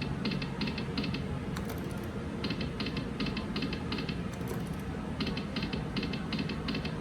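Video slot machine clicking through spins: runs of short, evenly spaced clicks, about three a second and roughly five to a run, as the reels stop one after another. A steady low casino background rumble runs beneath.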